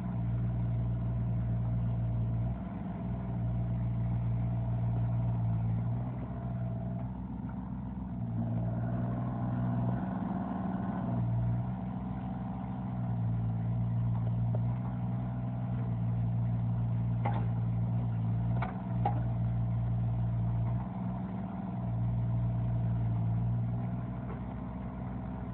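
Diesel engine of a Bobcat E32i compact excavator running steadily, its note dipping and rising every few seconds as the machine is worked. A brief higher whine comes in about a third of the way through, and three sharp knocks come about two-thirds of the way in.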